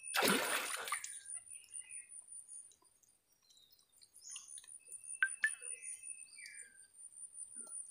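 Small birds chirping sporadically in short calls, after a brief rustling noise in the first second.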